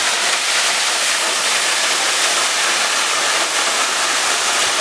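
Waterfall and rushing water, a steady, loud rush with no change.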